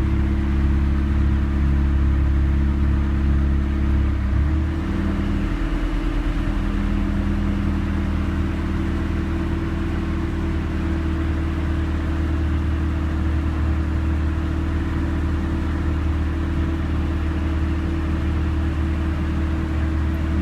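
1991 Honda Civic engine running with its Matsushita AC compressor on, a steady low hum whose pitch shifts about four seconds in. No ticking: the compressor's rapid-ticking fault, traced to a wire short of alternator voltage, is fixed.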